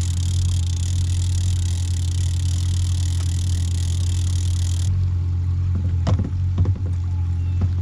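Boat's outboard motor running steadily at trolling speed, a low, even drone. A high hiss over it cuts off suddenly about five seconds in, and a few light knocks follow near the end.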